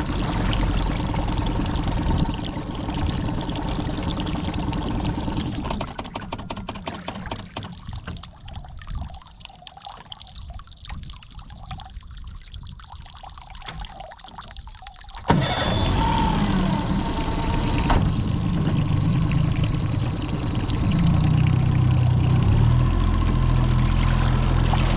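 Mercury 30 hp four-stroke outboard motor running, with water pouring and splashing from its cooling-water stream. The sound drops off for several seconds in the middle, then comes back suddenly and loud, the engine pitch shifting up and down near the end.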